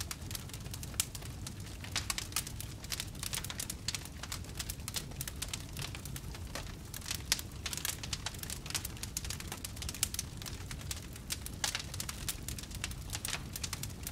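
Wood fire in a fireplace crackling and popping, with dense, irregular snaps over a steady low rumble.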